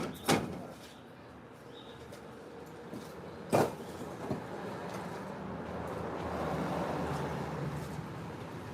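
Two sharp impacts about three seconds apart, with a lighter knock after the second, from concrete being broken up by hand. Then a passing vehicle's engine and tyres swell and fade.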